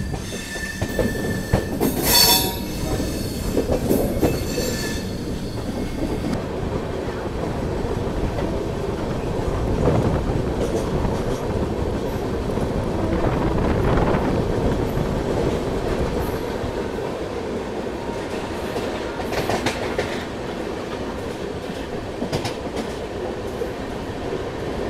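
Double-decker AC express train running on the rails just after departure: a steady rumble of wheels on track. A high wheel squeal rings out in the first few seconds, and there are occasional sharp clacks later on.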